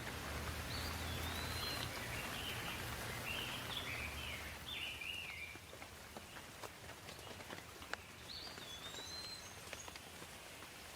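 Rain falling steadily with scattered drips, easing off about halfway through. A songbird sings a warbling phrase of rising and falling chirps over the rain, then sings briefly again near the end.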